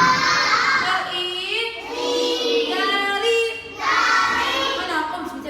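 Young children's voices singing together in drawn-out, held notes, in about three phrases.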